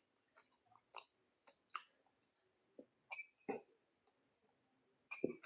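A handful of faint, short mouth clicks and smacks of someone chewing soft food close to the microphone.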